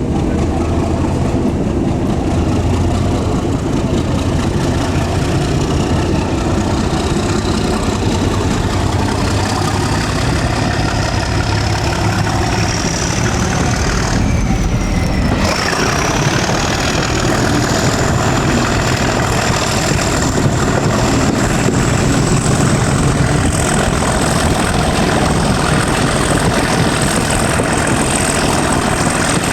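Class 37 diesel-electric locomotive's English Electric V12 engine running under load, heard from the train behind it. A high whine climbs slowly in pitch, dips sharply about halfway through, then climbs again to near the end.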